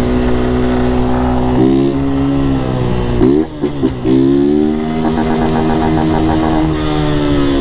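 Honda CG 160 Start's single-cylinder four-stroke engine running while riding, with no air filter fitted. The revs rise about a second and a half in, the note breaks off briefly around the middle, then settles back to a steady lower pitch.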